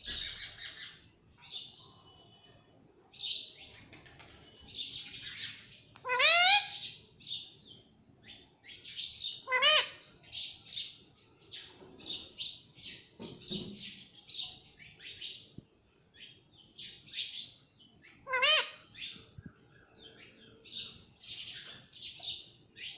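Pet ringneck parrot chirping and chattering in quick, high-pitched calls, with three louder calls rising in pitch about six, ten and eighteen seconds in.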